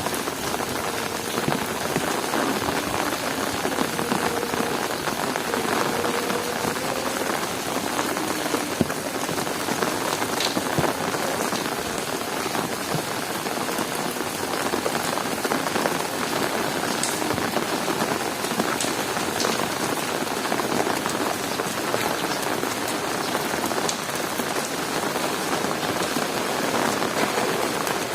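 Heavy rain falling steadily: a dense, even hiss of rain on surfaces, with scattered sharp drop impacts.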